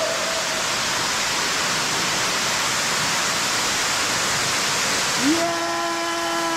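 Steady rushing, hissing noise with no rhythm, like running water or wind. About five seconds in, a man gives a long drawn-out shout of "yeah" that falls in pitch as it ends.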